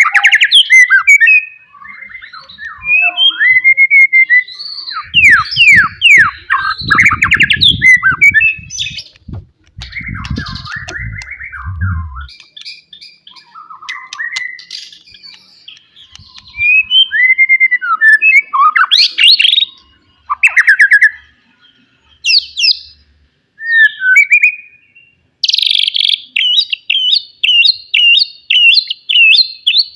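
White-rumped shama (forest-type murai batu) singing loud, varied whistled phrases with quick up-and-down sweeps and fast trills, under a low thudding noise for several seconds early on. Near the end it switches to a fast run of repeated notes, about three a second.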